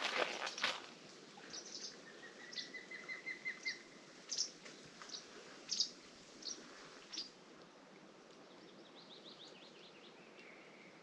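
Wild birds calling faintly: scattered short, high chirps, with two quick runs of rapidly repeated notes, one about two seconds in and one near the end.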